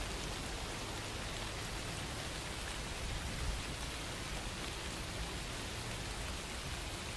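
Steady rain falling, an even patter of drops on a surface with no breaks.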